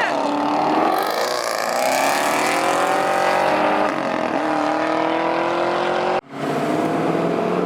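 A car engine accelerating under throttle, its revs climbing steadily. About six seconds in, the sound cuts out for a moment and comes back with the engine at lower revs.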